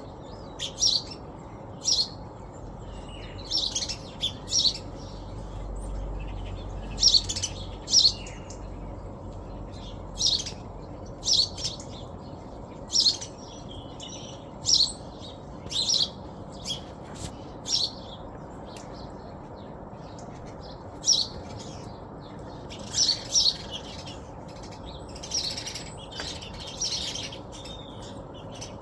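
Small birds chirping: short, sharp calls repeated irregularly, often one every second or so and sometimes in quick pairs, over a steady low background hiss.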